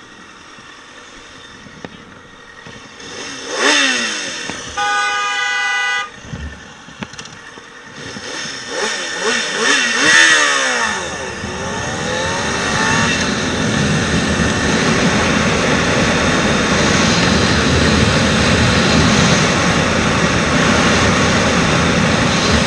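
Road traffic heard from a motorcycle: a vehicle passes about three seconds in, then a horn sounds one steady note for about a second. More vehicles pass, then a steady rush of wind and engine noise builds as the motorcycle rides on at speed.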